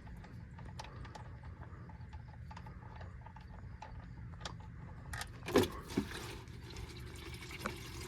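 Faint ticking as the oil drain plug is turned out by hand. About five seconds in, the engine oil starts to pour out of the drain hole into the drain pan as a steady splashing stream, with two sharp knocks near its start.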